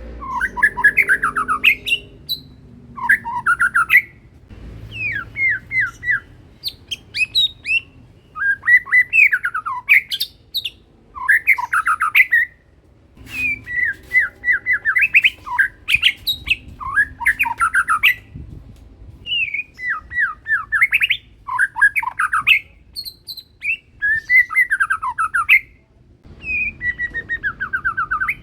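White-rumped shama singing loudly in repeated bursts of fast, varied whistles and sweeping notes, each phrase about one to two seconds long, with short pauses between them.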